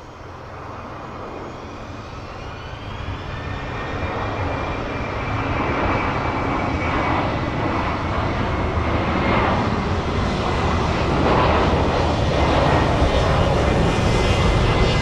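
Airliner engines growing steadily louder as the aircraft comes closer: a low rumble with a high whine on top that edges slightly up in pitch.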